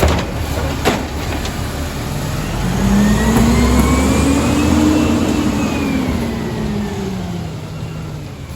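Garbage truck engine revving up and easing back down over about five seconds, after two sharp knocks about a second apart near the start.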